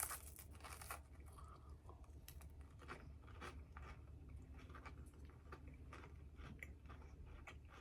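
Faint, close-up crunching and chewing of a small crisp cone snack filled with chocolate, many short crackles in an uneven run.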